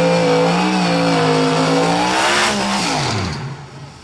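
A drag racing car's engine at full throttle. Its note holds high and loud, then about three seconds in the pitch drops steeply and the sound fades away.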